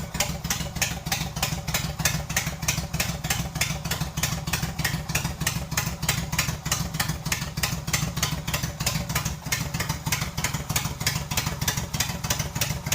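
Motorcycle engine idling steadily, with an even pulse of about six or seven beats a second and no revving.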